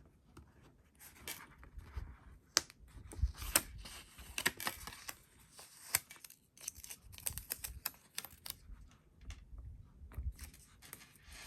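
Paper and a sticker being handled on a journal page: soft rustling with many small clicks and crackles as the sticker is peeled up and pressed back down.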